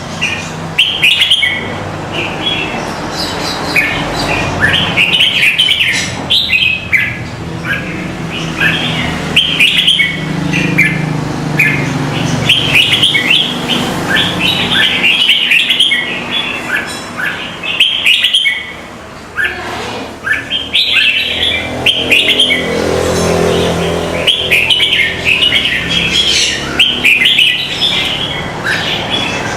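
Many small birds chirping and squawking in a dense, continuous chorus of quick high calls, over a low steady background hum.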